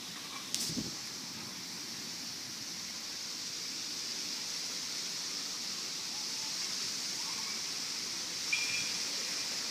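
Strong wind blowing in a steady hiss. About half a second in there is a sharp click followed by a low thump.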